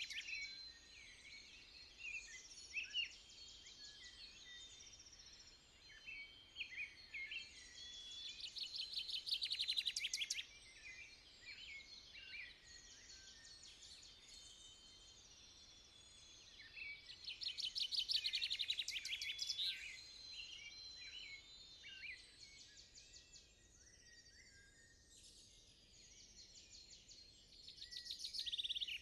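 Songbirds singing and calling in woodland, with scattered short chirps. One bird repeats a loud, fast trilling song of two to three seconds three times, roughly every nine seconds.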